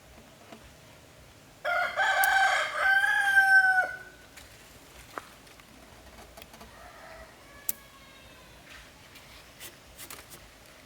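A rooster crows once, loudly, for about two seconds, starting a second and a half in, its call held and then falling away at the end. Afterwards faint clicks and knocks, with a weaker pitched call near the middle.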